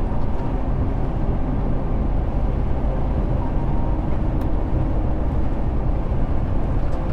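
Semi truck's diesel engine and road noise heard from inside the cab, a steady low rumble.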